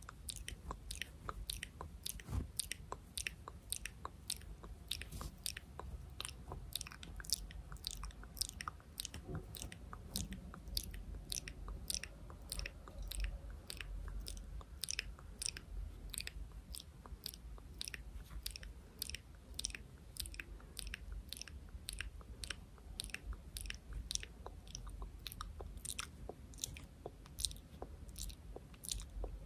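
Close-miked ASMR hand sounds: a steady stream of crisp little clicks and snaps from fingers and palms moving near the microphone, about three or four a second.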